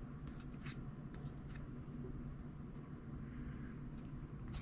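Faint rustle and soft clicks of trading cards being handled and slid past one another, a few light strokes in the first second and a half and another near the end, over a low steady background hum.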